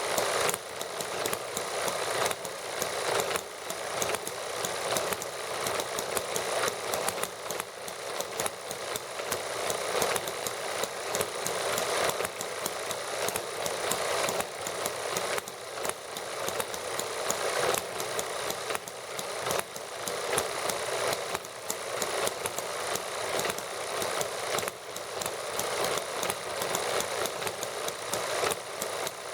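Several small model gasoline engines running together, a fast steady chatter of firing clicks that does not let up.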